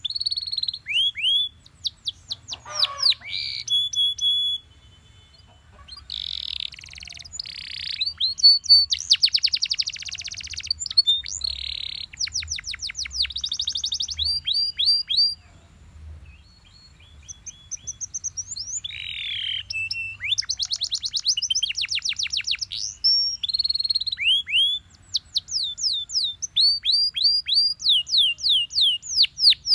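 Belgian canary singing a long song of fast repeated trills and sweeping phrases, the phrases changing every second or two, with two short pauses.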